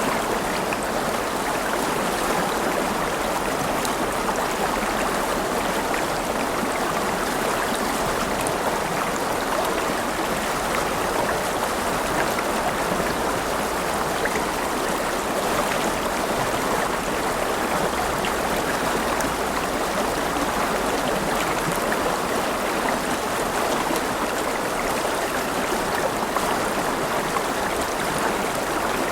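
River water flowing steadily over stones, an even rushing with small splashes and no change throughout.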